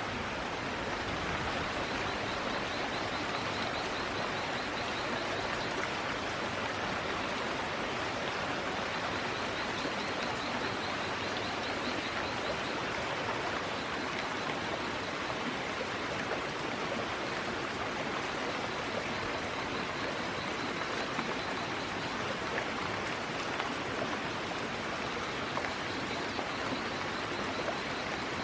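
Steady, unbroken rushing noise, like running water. A faint, high, rapidly repeating chirp comes and goes over it.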